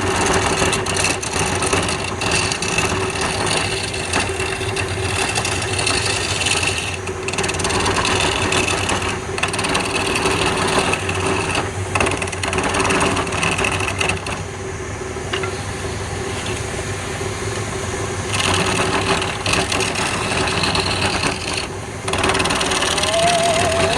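Wood lathe running, with a turning tool cutting the spinning wood: a steady motor hum under a rough scraping noise that eases off for a few seconds midway.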